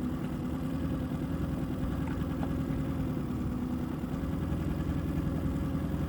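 New 9.9 hp outboard motor on an inflatable dinghy running steadily at low, even speed, held off the plane while it is being broken in.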